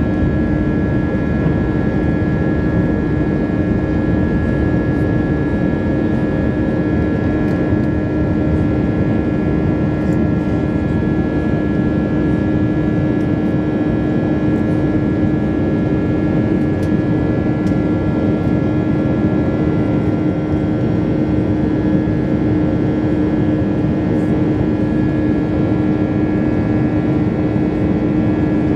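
Airbus A320 jet engine and airflow noise heard inside the cabin: a steady loud rush with a constant low hum and a thin high whine that do not change in pitch.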